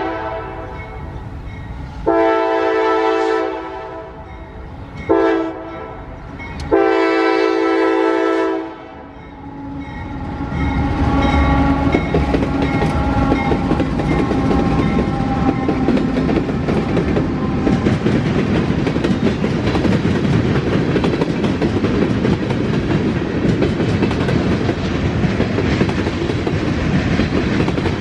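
Norfolk Southern freight train sounding its chime horn in the grade-crossing pattern: long, short, long. It then passes close by, with the locomotive's deep engine rumble followed by the steady rolling clatter of wheels over rail joints.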